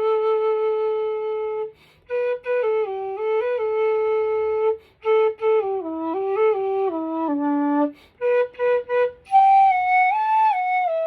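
Nanxiao, an end-blown vertical bamboo flute in G, playing an unaccompanied melody in phrases separated by short breath breaks. About eight seconds in it plays three quick repeated notes, then climbs to higher notes.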